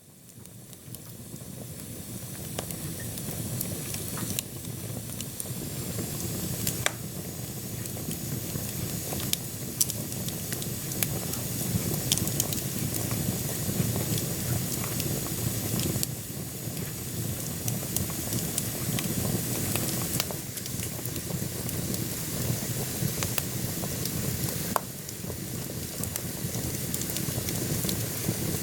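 Wood burning in a wood-burning stove: a steady rush of flames with a sharp crackle or pop from the burning logs every few seconds. It fades in over the first couple of seconds.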